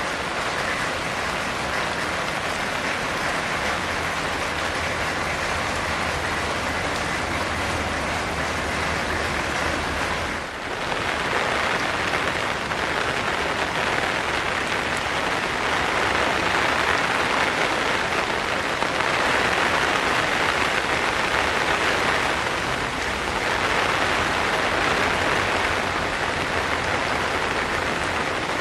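Steady, heavy rain falling, a dense even hiss, with a brief dip about ten seconds in. A faint low hum sits under it during the first ten seconds.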